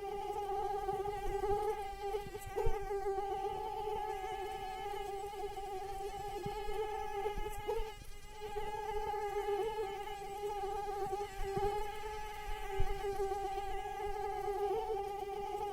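Mosquito in flight, its wingbeat a steady high-pitched whine with many overtones, wavering slightly in pitch and loudness and fading briefly about halfway through.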